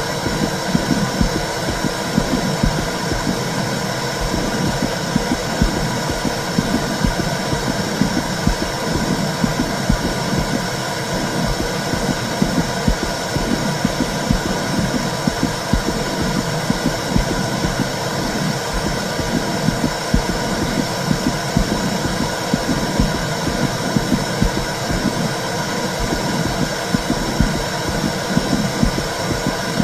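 Womb sound for soothing a baby: a steady whooshing noise over a low rumble that pulses at a regular beat.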